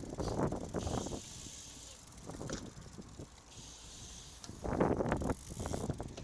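Road bicycle riding with tyre and wind noise. Two gusts of wind buffet the microphone, one at the start and one about five seconds in.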